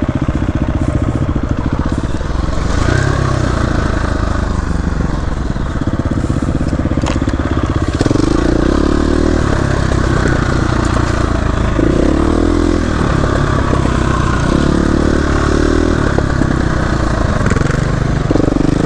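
Dirt bike engine running under way, its pitch rising and falling with the throttle and gear changes, with wind and trail noise. A single sharp click sounds about seven seconds in.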